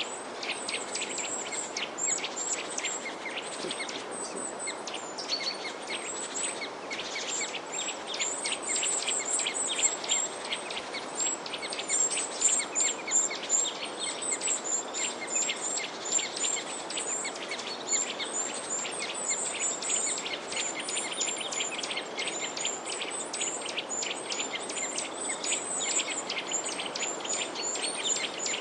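A flock of small birds chirping together, a dense and continuous stream of short, high chirps over a steady background hiss.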